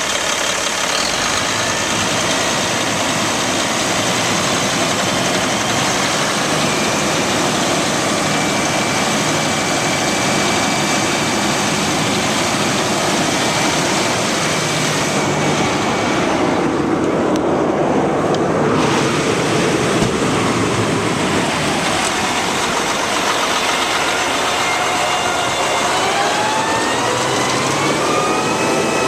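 Cat C-10 diesel engine of a Kenworth T800 concrete mixer truck running steadily. Near the end a whine climbs in pitch and then holds as the engine is revved up.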